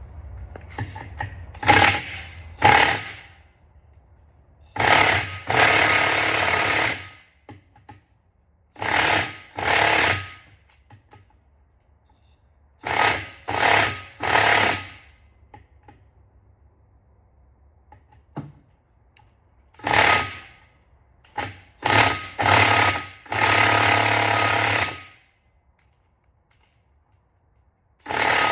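A power tool, most likely an impact wrench, run in short bursts of half a second to two seconds, about a dozen times, with pauses between them while fasteners are being undone on an engine teardown.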